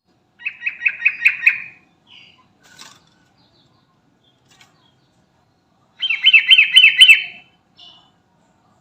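Yellow-vented bulbul (trucukan) singing: two quick bubbling phrases of about six notes each, one a little after the start and one about six seconds in, with a few faint short calls between them.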